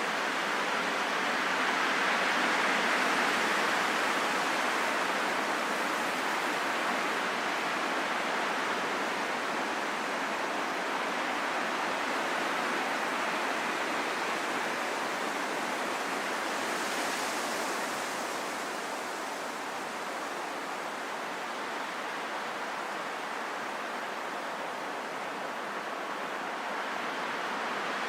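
Steady rain falling in a forest, an even hiss with no distinct drops or other sounds standing out.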